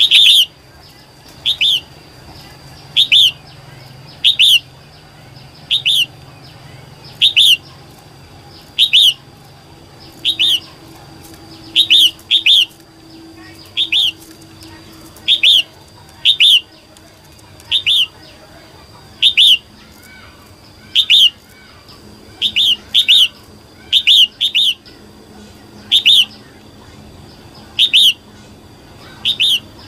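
Female red-whiskered bulbul calling: a short bright chirp repeated about every second and a half, now and then as a quick pair. It is the call keepers use to rouse both young and adult male bulbuls.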